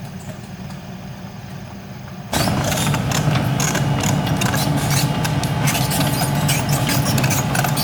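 Excavator's diesel engine running steadily. About two seconds in, the sound turns suddenly much louder, with the engine working harder and a dense clatter and rattle over it.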